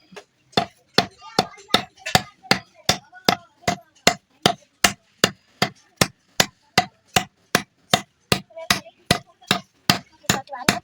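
Hammer blows on iron, struck in a steady rhythm of about two and a half blows a second.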